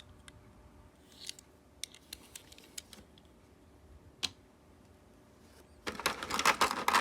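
Plastic toy-car packaging being handled: a few light clicks and taps, then about six seconds in a loud burst of crinkling and crackling plastic.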